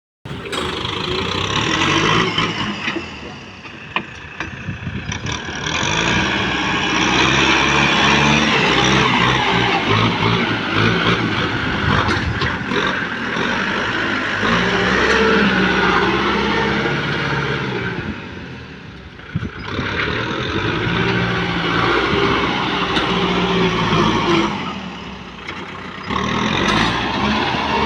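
Kubota M6040 tractor's diesel engine running hard, its pitch and loudness shifting as the load changes, with brief easings a few times.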